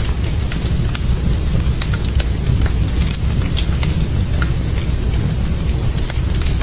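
Fire burning in a fireplace, crackling with many small sharp pops over a steady low rumble.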